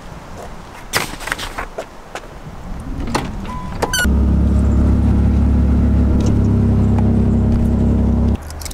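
Chrysler LeBaron convertible being started: a short chime and a brief rising whine, then the engine catches and runs loud and steady for about four seconds before dropping suddenly to a quieter low idle.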